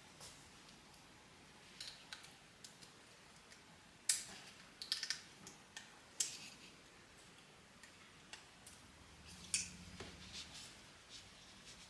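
Scattered light clicks and taps of small household objects being handled and set down, the sharpest about four seconds in and a few close together just after, with a faint low hum around nine seconds.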